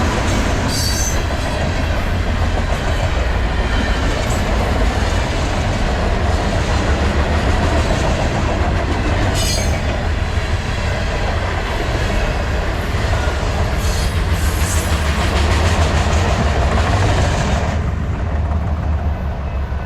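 Canadian Pacific freight train's cars rolling past, with wheels clattering over the rail joints and a few brief high wheel squeals. The high-pitched part of the noise drops away about 18 seconds in.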